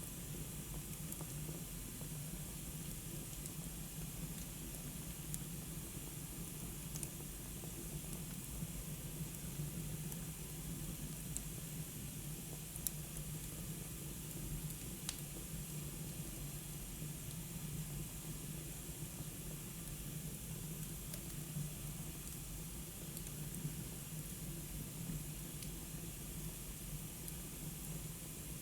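Wood fire burning in a fireplace: a steady hiss with a few sparse crackling pops, the sharpest two about halfway through.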